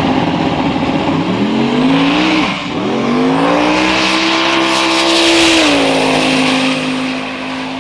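Drag-racing car's engine accelerating hard down the strip: the note climbs, dips briefly at a gear change about two and a half seconds in, climbs again and holds high, then drops to a lower steady pitch near six seconds in.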